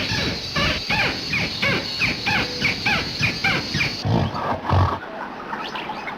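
Quick run of short, arched animal calls, about three a second, which stops abruptly about four seconds in; two low thumps follow.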